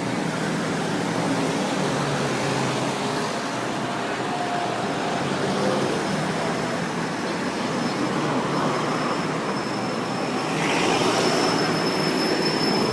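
Steady vehicle noise: a low engine hum under road noise, swelling about ten seconds in.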